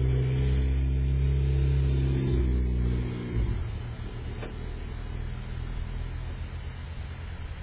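Turbocharged Honda Civic Type R's four-cylinder engine and exhaust running with a deep, steady rumble as the car drives away, dropping off sharply about three seconds in. A short knock follows, then a fainter rumble carries on.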